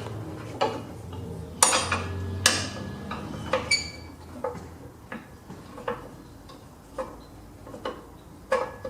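Irregular metal clinks and knocks of tools and parts against the steel mower deck while a belt keeper is lined up for bolting on, about ten sharp taps spread out, a few with a brief ring.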